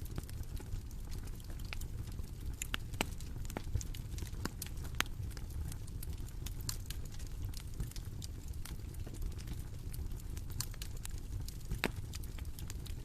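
Campfire burning, a steady low rumble with irregular sharp crackles and pops of the burning wood.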